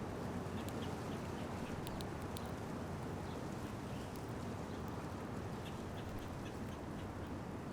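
Small songbirds at a feeder giving many short, scattered chirps and chips over a steady low background rumble.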